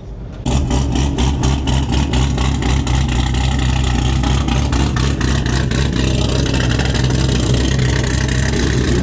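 A loud car engine idling close by, with steady low drone and a regular choppy pulse of several beats a second, typical of a lumpy performance idle. It cuts in suddenly about half a second in.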